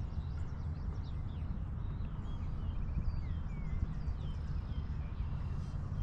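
Small birds chirping and whistling, with short calls and a quick trill about halfway through, over a steady low rumble.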